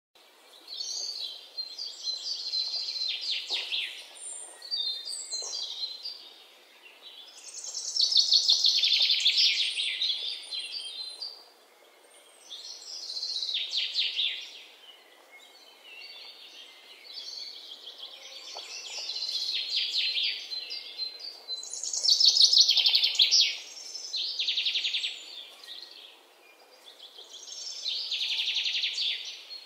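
Birds singing: repeated bouts of rapid, high chirping trills, each a second or two long, coming every few seconds.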